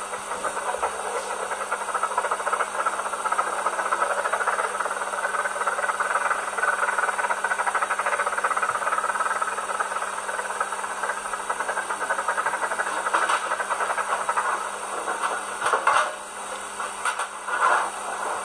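Sound module in an H0-scale Rivarossi Big Boy model steam locomotive playing rapid steam-exhaust chuffing and hiss through the model's small speaker, thin and confined to the middle range. A few louder bursts come near the end.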